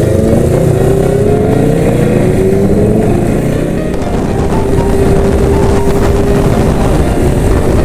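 Vintage Japanese motorcycle engines running as the bikes ride off. The main engine note rises steadily over the first three seconds or so, then holds even.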